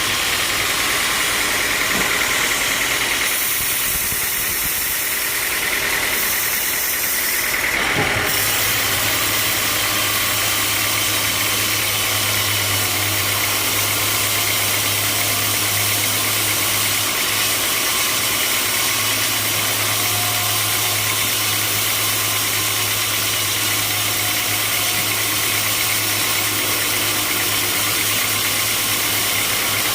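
Sawmill machinery running with a steady loud noise. About eight seconds in there is a knock, and after it a low motor hum sets in and holds steady.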